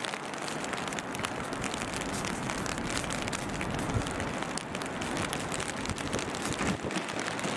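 Steady rain and wind, with many sharp patters of drops. Under it runs the faint low running of an approaching Class 197 diesel multiple unit.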